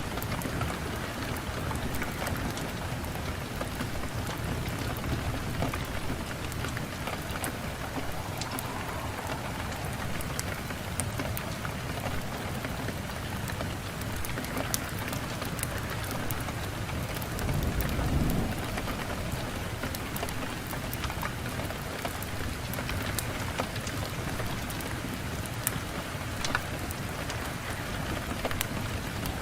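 Wood fire crackling in a fireplace: a steady hiss with many scattered sharp pops, and a brief low rush of flame about eighteen seconds in.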